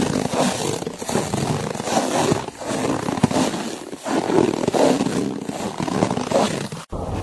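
Footsteps crunching through snow, a rough crackling crunch that swells and dips with each step. The sound cuts out for an instant near the end.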